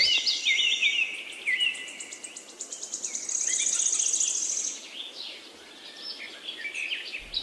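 Small birds chirping and singing in short, falling high whistles, with a rapid high trill about three to five seconds in.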